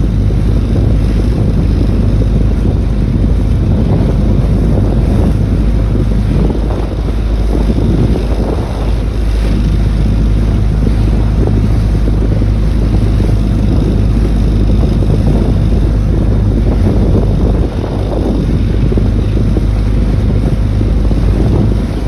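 Wind buffeting the microphone on a small motorboat under way, a loud steady low rumble with the boat's motor and water noise underneath.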